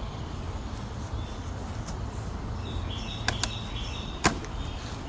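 Outdoor ambience of birds chirping over a steady low rumble, with three sharp clicks in the last couple of seconds, the last one the loudest.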